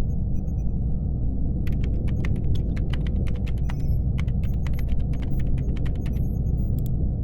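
Laptop keyboard typing: a quick, uneven run of key clacks starting about two seconds in and stopping about six seconds in, over a steady low hum, with faint high electronic bleeps now and then.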